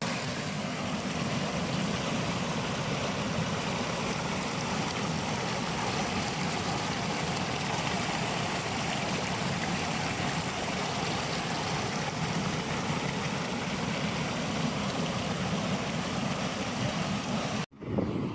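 Stream water flowing steadily, with an even hiss and low rumble. It cuts out abruptly for a moment near the end, and a different steady sound follows.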